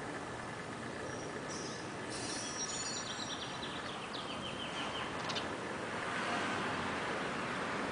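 Steady outdoor background hiss with a small bird singing a quick run of high chirps in the first half, ending in a short falling series of notes.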